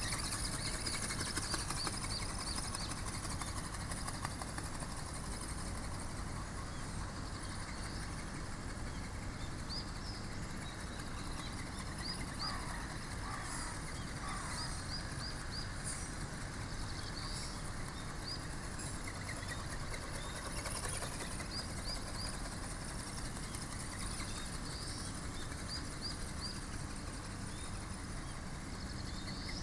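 Steady low outdoor rumble with small birds chirping throughout in short, high, repeated calls.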